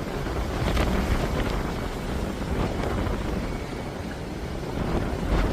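Strong gusty wind blasting the microphone, a continuous deep rumble that swells and eases with the gusts.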